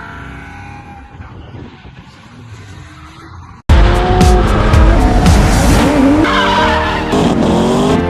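Drift car engine revving hard with tyres squealing and skidding, cutting in suddenly a little over three seconds in after a quieter stretch.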